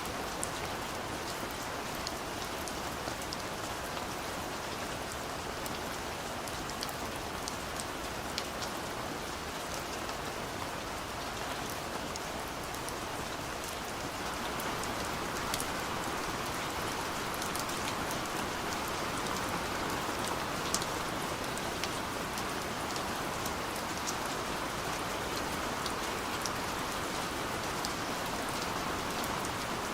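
Steady light rain falling, with many individual drops ticking against a surface over an even hiss; it grows slightly louder about halfway through.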